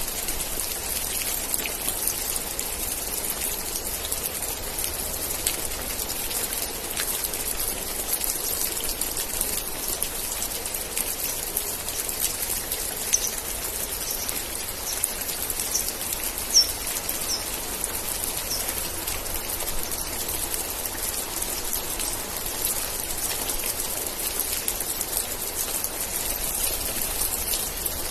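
Steady rain with dense raindrop patter on surfaces. Around the middle, a series of short high chirps sounds over the rain for several seconds.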